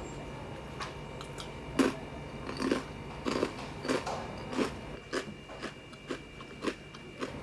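Close-up chewing of very thin, crispy cheese-flavoured rice crackers: a dry crunch about twice a second.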